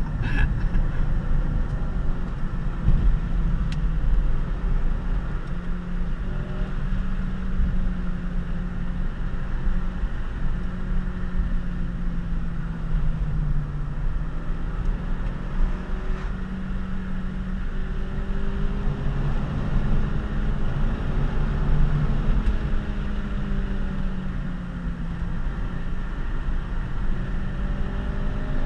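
Honda Civic Si's 2.0-litre four-cylinder engine heard from inside the cabin under part throttle, its pitch drifting up and down with speed over constant tyre and road noise.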